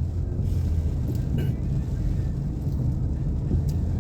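Steady low road and engine rumble inside the cabin of a Nissan Pathfinder on the move, with a few faint clicks.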